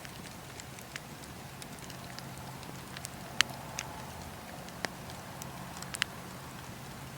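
Wood fire burning in a fireplace: a steady soft hiss and low rumble with sharp crackles and pops at irregular moments, the loudest about three and a half seconds in and another just after six seconds.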